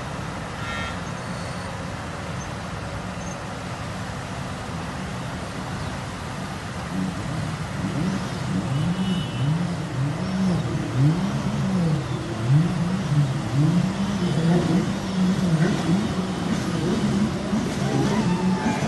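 Steady rain mixed with road traffic noise. From about seven seconds in, a low pitched sound swoops up and down roughly once a second and grows louder.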